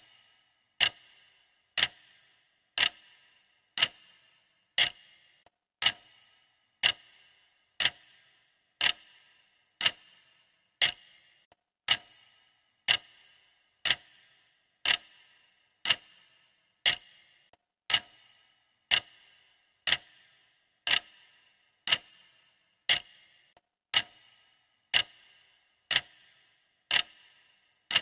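Clock ticking steadily, one sharp tick per second, each with a short ring.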